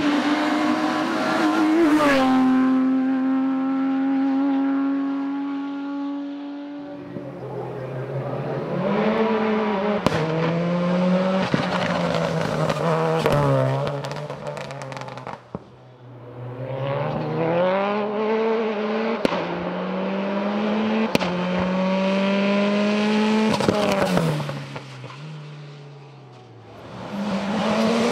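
Race car engines at a hillclimb, one car after another passing at full throttle. The engines rev up and drop back through gear changes, with a few sharp cracks. The sound fades and swells as each car comes and goes.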